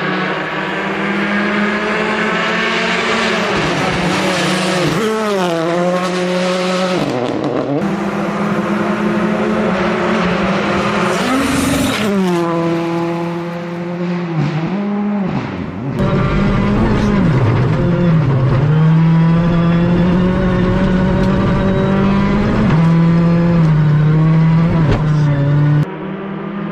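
Ford Fiesta R5 rally car's turbocharged four-cylinder engine driven hard, its pitch climbing under acceleration and dropping sharply several times at gear changes and lift-offs.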